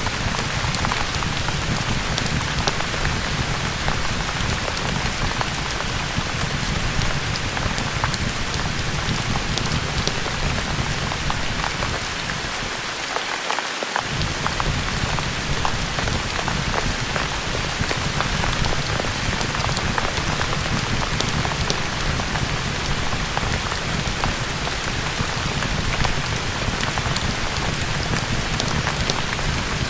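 Steady heavy rain: a dense patter of drops over a low rumble. The low rumble briefly drops out about halfway through.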